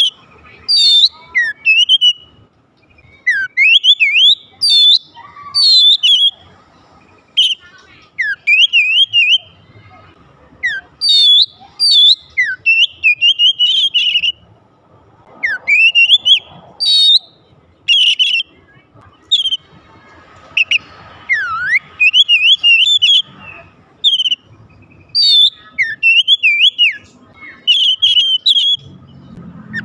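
Oriental magpie-robin (kacer) singing a loud, varied song of quick whistled notes that swoop up and down, delivered in short phrases with brief pauses between them.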